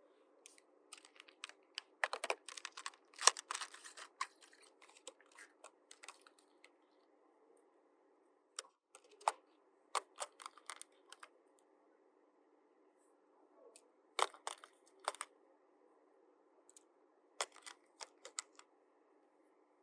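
Light clicks and taps of small plastic toy playset pieces being handled and set down, in scattered clusters with quiet pauses between.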